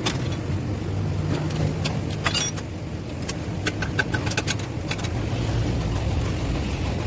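Heavy truck engine running with a steady low hum, with scattered sharp metallic clicks and a quick run of ringing clinks about four seconds in.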